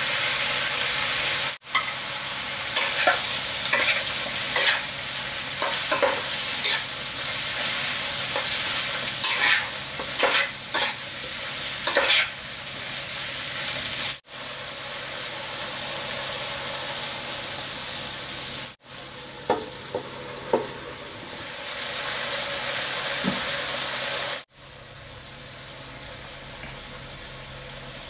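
Sliced long green eggplant and minced pork frying in a non-stick wok, a steady sizzle with a spatula scraping and knocking against the pan as it stirs. The stirring strokes come thick through the first half and again briefly later, and the sizzle is quieter near the end.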